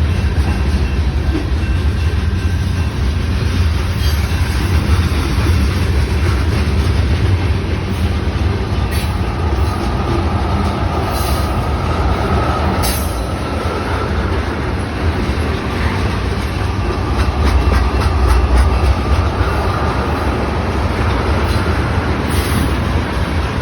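Railroad cars rolling past with a steady heavy rumble of wheels on rail. A faint wheel squeal comes in about ten seconds in and again a little later, with an occasional clack.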